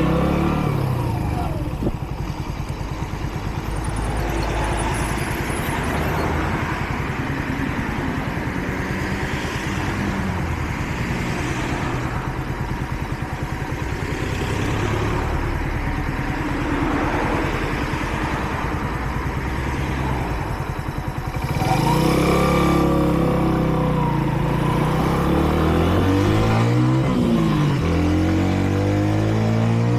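Kreidler Dice CR 125 motorcycle's single-cylinder engine running under way, with wind rush over the bike. About two-thirds of the way through it gets louder and revs up through the gears, the pitch climbing and dropping back at each shift. The bike is still being run in.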